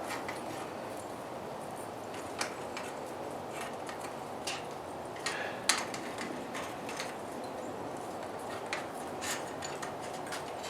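Steady rushing background noise with a few sharp, light clicks and clinks scattered through, the clearest about two and a half and five and a half seconds in.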